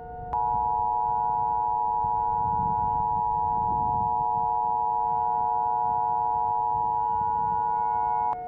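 Emergency Alert System attention signal: two steady tones, 853 and 960 Hz, sounding together as one harsh dual-tone drone. It cuts off suddenly about eight seconds in, and it signals that an emergency alert message, here a tornado warning, is about to be broadcast.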